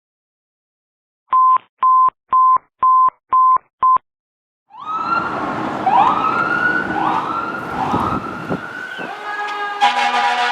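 Six short, even electronic beeps, then a fire engine's siren starts, sweeping up and falling back about once a second. Near the end a steady, deep air horn blast joins the siren.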